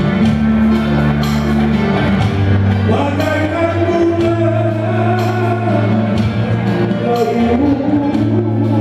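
Band music with a singer over bass and a steady drum beat with regular cymbal hits.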